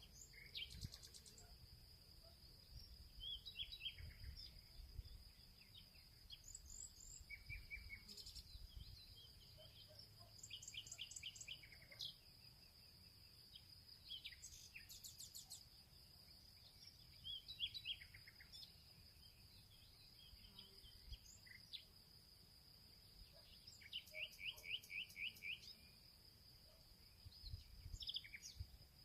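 Faint field ambience: small birds chirping and trilling in short phrases, some as quick runs of repeated notes, over a steady high-pitched insect drone.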